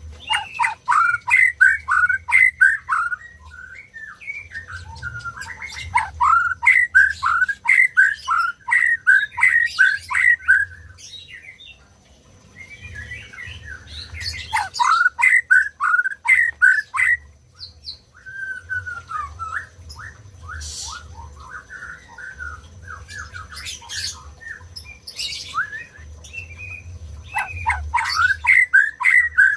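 White-rumped shama (murai batu) singing: fast runs of sharp, repeated falling notes in phrases of a few seconds, with short pauses between phrases.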